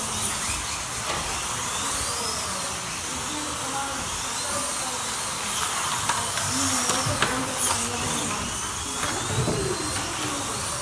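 Slot cars' small electric motors whining as they race around the track. Their pitch rises and falls as the cars speed up and slow down.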